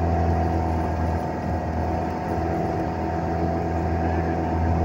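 Vehicle engine running with a steady drone as it drives, easing off a little in the middle.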